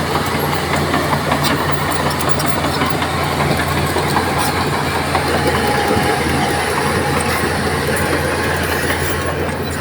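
Bulldozer diesel engine running steadily, with scattered short clicks over it.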